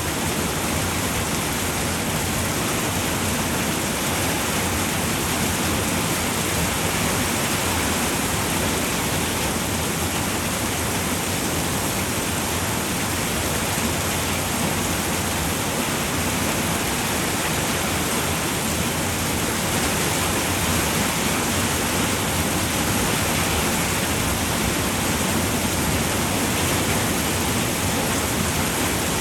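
Steady rain falling on a roof, a dense even hiss of drops with no single drop standing out.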